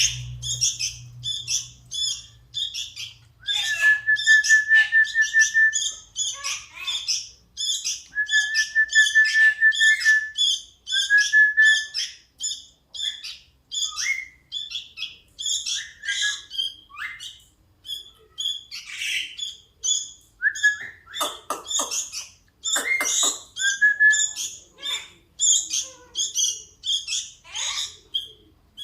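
Young sooty-headed bulbul (kutilang) calling with fast, repeated high chirps, several a second without pause, the begging calls of a chick waiting to be fed. Long, even whistled notes come in a few times in the first half, and a few short knocks sound about two thirds of the way through.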